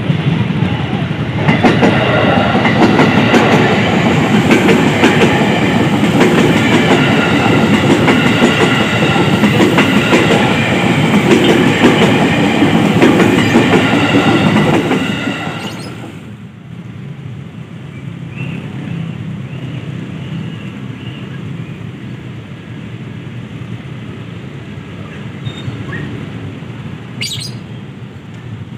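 KRL Commuter Line electric train passing close by, wheels clattering over the rail joints with a dense rumble and steady high tones over it. About halfway through the loud passing sound drops off suddenly, leaving a quieter rumble as the train moves away.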